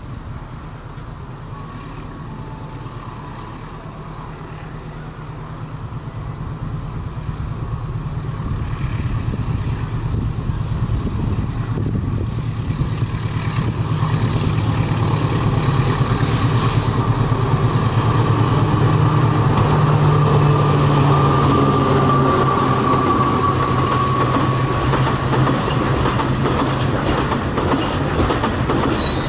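Train approaching along the track, its running noise and a steady low engine drone growing louder from about six seconds in and staying loud through the second half.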